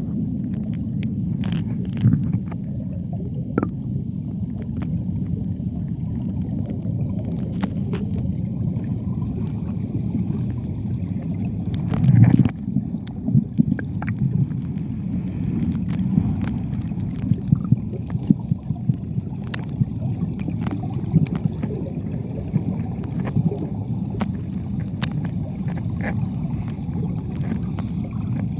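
Rushing water of a waterfall river, heard low and muffled, with scattered small clicks and knocks.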